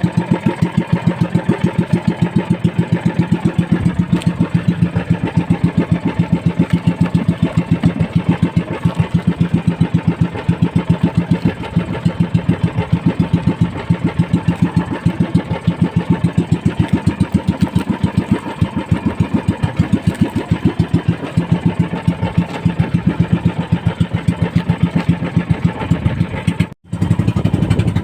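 Small boat engine running steadily, a fast, even putter. It breaks off for a moment near the end.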